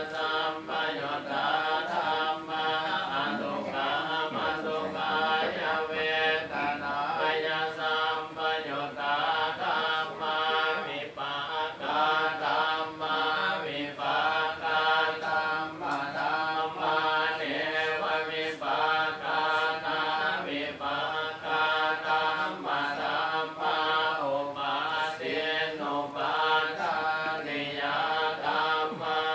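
Buddhist chanting in Pali by several voices in unison, a continuous recitation held on a steady reciting tone.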